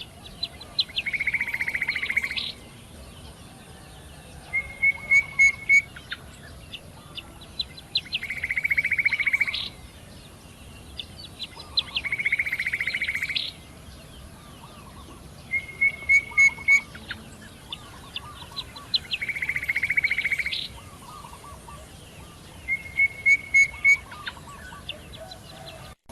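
A songbird singing a repeated song: a fast trill about a second and a half long, alternating with a short run of four or five loud, clear notes, each phrase coming every few seconds.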